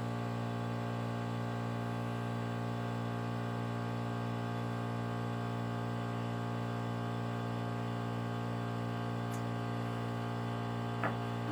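Steady electrical mains hum with a buzzy stack of even overtones, unchanging throughout, with a faint click near the end.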